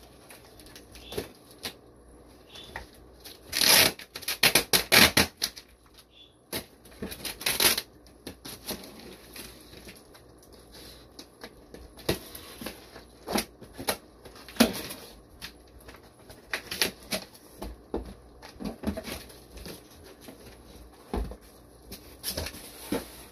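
Shipping box being unpacked by hand: irregular rustling and crinkling with scattered taps and knocks, the busiest stretch a few seconds in.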